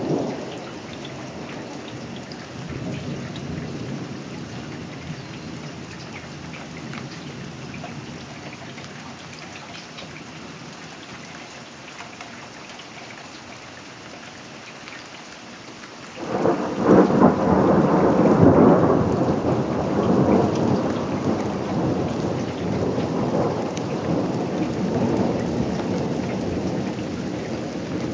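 Thunderstorm: rain falling steadily while the rumble of an earlier thunderclap dies away. About sixteen seconds in, a sudden loud clap of close thunder breaks out and rolls on rumbling, slowly easing off.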